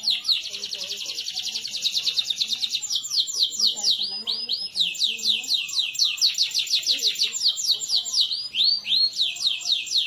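Male canary singing a continuous 'gacor' song of fast rolling trills. The repeated high notes shift from phrase to phrase, from rapid rolls into series of slower down-slurred whistles and back.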